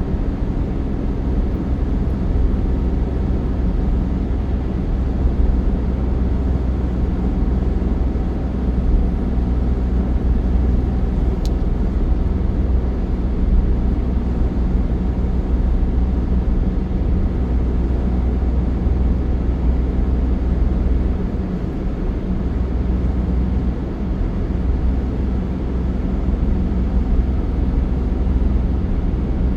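Steady low engine drone and road rumble of a moving vehicle, holding an even pace throughout.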